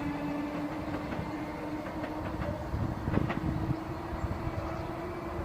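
Electric multiple-unit train, a Class 465 Networker coupled to a Class 319, running along the platform with a steady electric hum and several wheel knocks over the rail joints.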